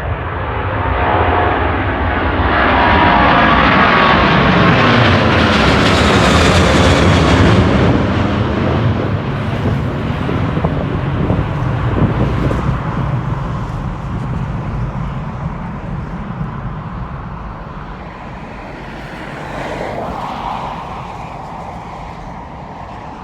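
Jet airliner passing close by, its engine noise swelling to a loud peak and then slowly fading, with a falling whine as it goes past.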